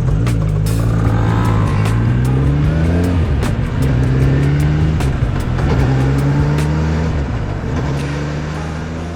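1972 Yamaha DT-1F's 250 cc two-stroke single-cylinder engine running. Its pitch climbs and falls back several times as it is revved. It grows quieter toward the end. The engine is overhauled and in top form.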